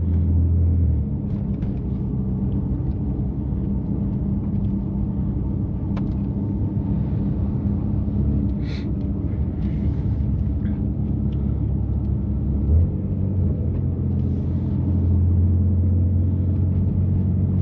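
BMW F80 M3's twin-turbo straight-six, with catless downpipes and an open-valved exhaust, droning at low, steady revs under road and tyre noise. The low drone eases off about a second in and comes back stronger near the end.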